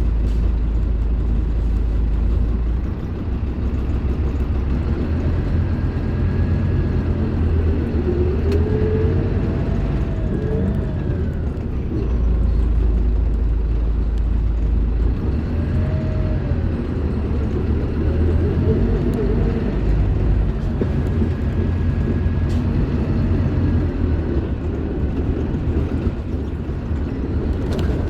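Scania K310IB bus's diesel engine running while the bus is under way, with a heavy low rumble; the engine note rises and falls a few times as it pulls and eases off.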